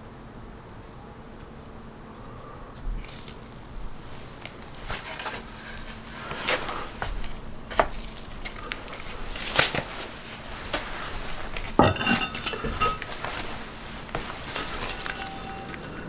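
Scattered clinks, taps and knocks of hard objects being handled, growing busier partway through, with the loudest knock about twelve seconds in, briefly ringing.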